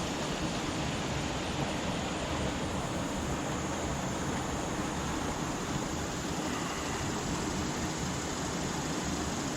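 Steady rushing of river water pouring over and below a low dam, an even unbroken roar.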